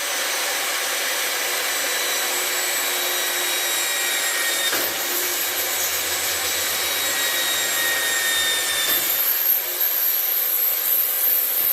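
Electric drill running steadily, boring a hole to fix a bracket. A lower hum joins in the middle, and a high whine rises near the end.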